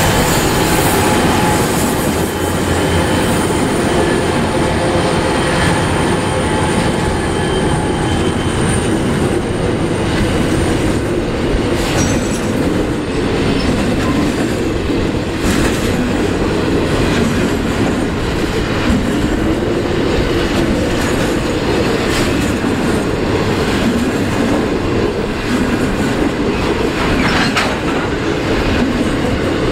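Loaded grain train passing close by: the trailing 81-class and BL-class diesel locomotives' engine drone tails off over the first several seconds, with a thin high wheel squeal. Then a long string of grain hopper wagons rumbles steadily past, wheels clacking over the rail joints.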